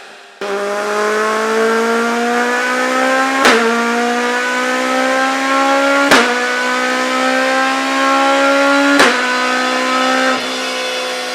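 Citroën AX 4x4's 1.6-litre 16-valve four-cylinder engine pulling hard at high revs, its pitch climbing steadily. It is interrupted three times by a sharp crack with a brief dip in pitch, like quick upshifts, and it backs off to a lower, steady note near the end.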